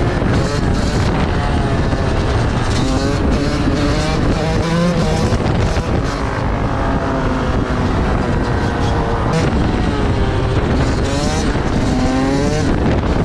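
Several vehicle engines revving, their pitch rising and falling again and again, with a steady drone of running motors underneath.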